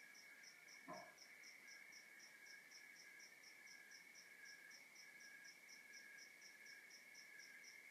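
Faint chorus of crickets and other night insects: a steady trill with a higher chirp repeating about four times a second. A brief soft knock about a second in.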